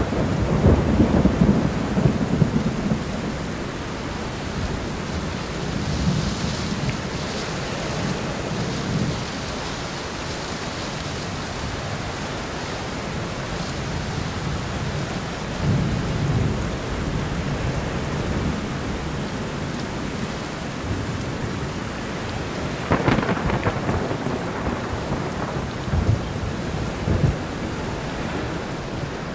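Very heavy rain pouring steadily, with deep rumbles swelling and fading, the strongest at the start, and a sharper, brighter one about three-quarters of the way through.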